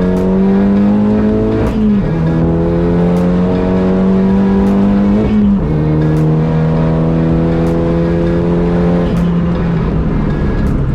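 Renault Clio track car with a Megane RS engine accelerating hard through the gears. The engine note climbs steadily, then drops sharply at each of three upshifts, spaced about three and a half seconds apart.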